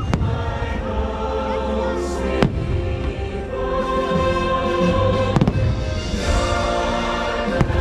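Fireworks show music with a choir, and aerial firework shells bursting over it in sharp bangs about every two to three seconds.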